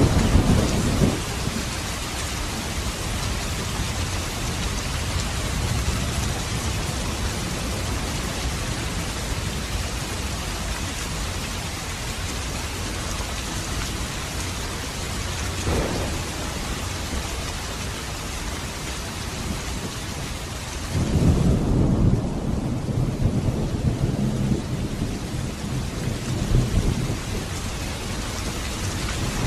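Steady heavy rain with thunder rumbling: a roll fading out in the first second, a short one about halfway, and a longer, louder roll about two-thirds of the way in.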